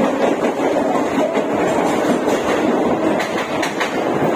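Mumbai suburban electric local train running, heard from aboard: a steady rumble of wheels on the track, with a few sharp clicks in the second half as the wheels pass over rail joints.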